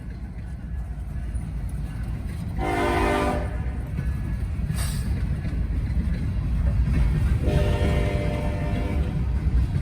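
Norfolk Southern SD70ACe diesel locomotive approaching with its engine rumbling louder, sounding its multi-chime air horn twice: a short blast about two and a half seconds in and a longer one near the end.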